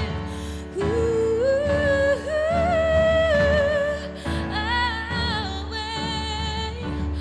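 A woman singing a slow Batak folk song over instrumental accompaniment, holding long, rising notes with vibrato; her phrase enters about a second in and a second phrase begins around the middle.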